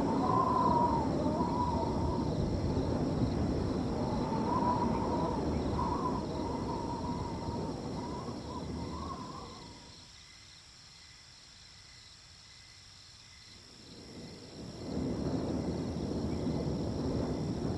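Wind blowing in gusts with a wavering whistle. It dies down for a few seconds past the middle, then picks up again. Crickets trill steadily and high underneath.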